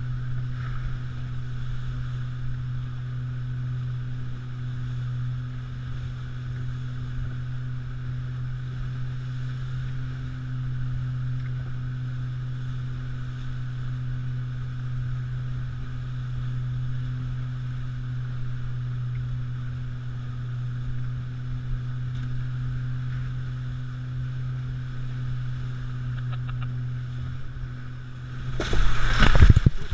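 Pontoon boat motor running at a steady drone under way, with water and wind hiss; about 28 seconds in, a sudden loud splash and rush of water as the boat hits a wave and takes water over the bow.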